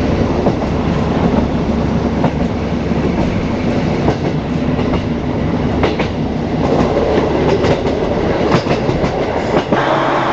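Diesel train heard from on board while running: a steady engine and running drone, with wheels clacking over rail joints in a quick run of clicks in the second half.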